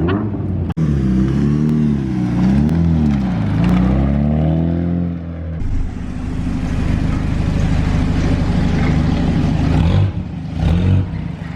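Rally car engine revving in repeated blips, its pitch rising and falling several times; a few seconds in the sound cuts suddenly to a steadier engine note.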